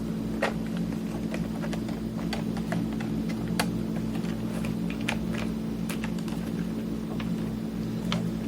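Scattered light clicks and taps of small parts and a screwdriver being handled during reassembly, over a steady low electrical hum.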